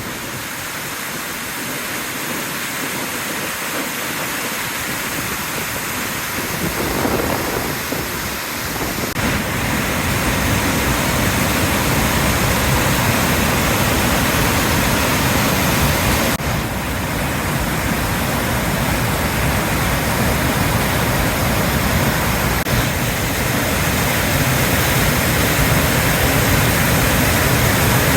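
Loud, steady rushing of floodwater pouring over a dam, growing louder about a third of the way in.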